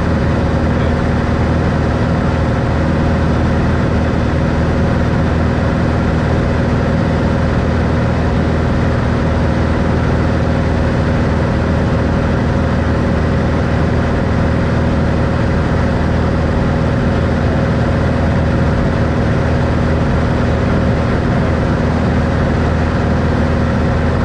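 Steady drone of a 1964 Cessna Skylane's six-cylinder Continental O-470 piston engine and propeller at constant power, holding an even pitch throughout.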